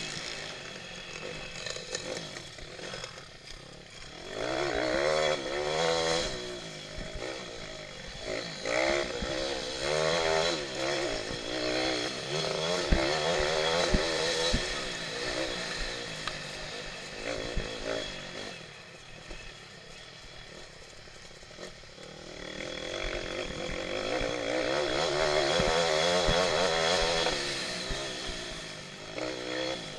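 Pit bike engine racing over a motocross track, its pitch rising and falling over and over with throttle and gear changes. It is loud for two long stretches with a quieter spell in between, and a few sharp knocks come near the middle.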